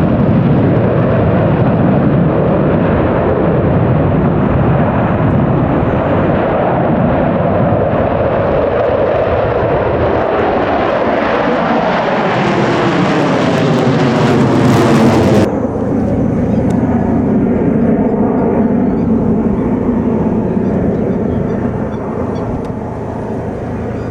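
Military jet aircraft flying past, a loud engine roar with a sweeping, falling tone as it passes. About two-thirds of the way through it cuts off abruptly to a quieter, steadier jet roar that fades near the end.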